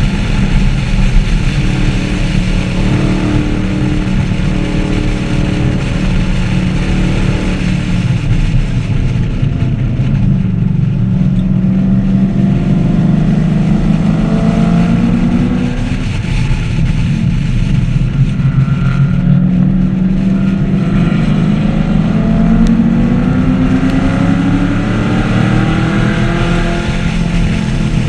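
2014 Camaro 1LE's V8 engine running hard on a race track. Its pitch drops twice, about a third of the way in and again around halfway, then climbs steadily through most of the second half as the car accelerates.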